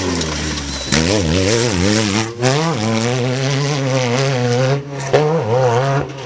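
Off-road race truck engine revving hard, its pitch rising and falling in quick swings as the throttle comes on and off.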